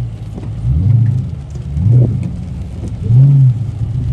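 Car engine revving three times in short throttle blips, each rising and falling in pitch, between a steady lower running note.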